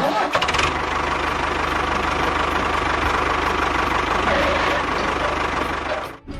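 Small engine of a homemade mini tractor running steadily with a fast, even knock. It cuts off suddenly near the end.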